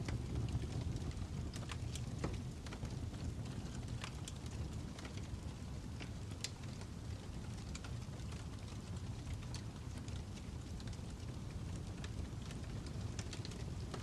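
Crackling fire: irregular sharp pops and snaps scattered over a steady low rumble.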